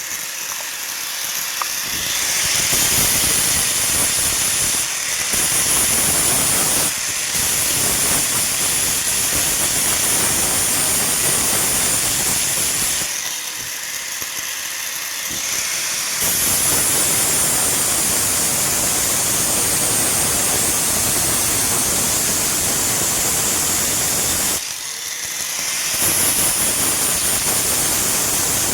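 Power grinder grinding steel, a steady rasping hiss over a high motor whine. It eases off twice, for about three seconds in the middle and briefly near the end, before biting into the metal again.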